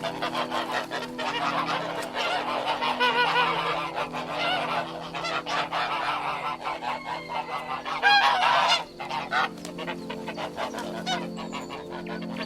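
Geese honking again and again, several calls overlapping, with a loud call about eight seconds in. Soft background music plays underneath.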